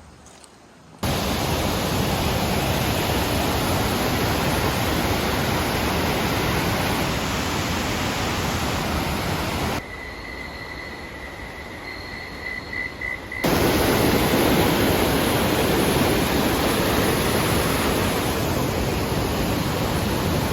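Loud, steady rush of falling water, broken by abrupt cuts. In a quieter stretch in the middle, softer water noise carries a steady high-pitched tone.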